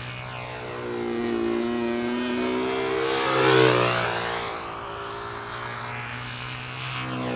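Small model-aircraft engine running at high speed on a control-line model plane circling on its lines; the engine note rises in pitch and loudness once a lap as the plane passes, peaking about halfway through, then falls away.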